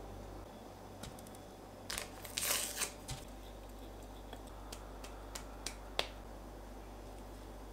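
Kitchen handling sounds: a brief crinkling, rustling noise about two seconds in and a few sharp light clicks, the loudest near the end, over a low steady hum.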